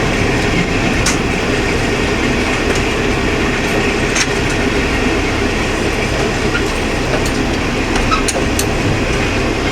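KiHa 20 diesel railcar running, heard from the cab: a steady diesel engine drone and rolling wheel noise, with a few faint clicks of the wheels over the rails.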